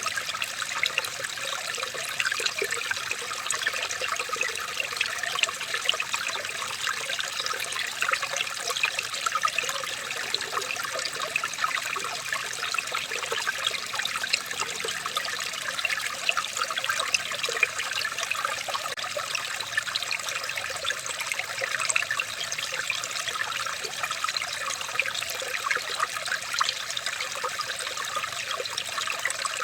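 Running water trickling and splashing steadily, a dense patter of small splashes with no let-up.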